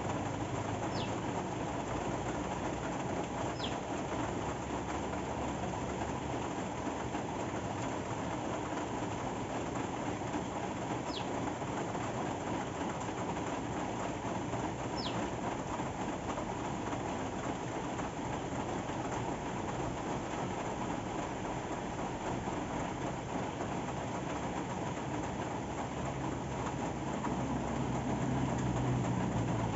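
Steady rain falling, an even hiss. A bird gives four short, high, falling chirps in the first fifteen seconds, and a low rumble swells near the end.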